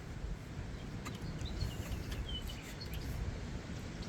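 Outdoor ambience: a steady, uneven low rumble, with a few short bird chirps about one and a half to two and a half seconds in and some faint clicks.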